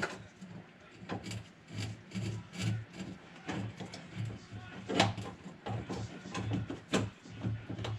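Irregular rubbing and scraping with light plastic clicks and knocks as the door handle's wiring is fed through a drilled hole in the truck door and the handle is worked into place. Two sharper clicks stand out in the second half.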